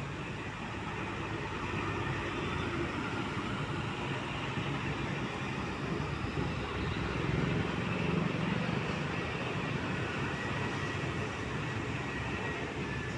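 Heavy trucks passing on a road: steady engine and tyre noise, swelling slightly about seven to nine seconds in.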